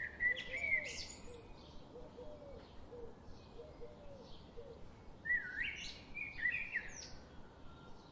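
A songbird singing two short warbled phrases, one at the start and another about five seconds in, with faint softer calls between them over a steady outdoor background hum.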